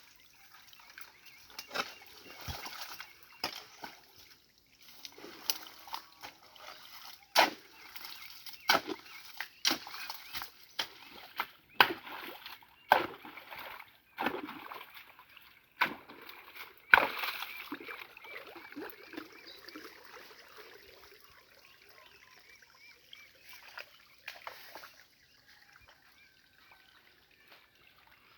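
Water splashing and sloshing in a shallow stream being cleared of debris, with many sharp irregular splashes. After about two-thirds of the way through the splashes stop and only a fainter wash of water remains.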